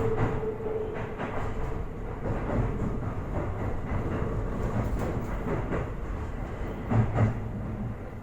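Toei 5500 series electric train running, heard from inside the car: steady wheel-on-rail rumble with scattered clicks from rail joints. A steady whine fades out about a second in, and two louder knocks come about seven seconds in.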